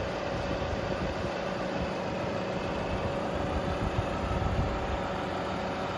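Scania R520 crane truck's V8 diesel engine running steadily, with a thin steady whine above the engine sound.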